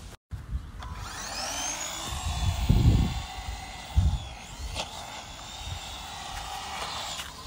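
Electric motor of a remote-controlled toy car whining, its pitch rising and falling as it speeds up and slows. There are a couple of heavy low thumps, the loudest about four seconds in.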